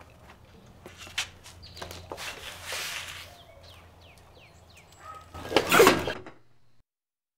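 Outdoor yard ambience: small birds chirping in short falling notes over a steady low hum, with a sharp click about a second in. Near the end comes a loud, short rushing burst, and then the sound cuts off to silence.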